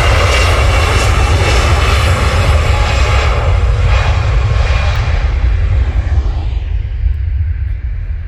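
Jet airliner engine noise, a loud steady rumble with a broad roar, from an easyJet jet that has just taken off and is climbing away. It fades from about six seconds in.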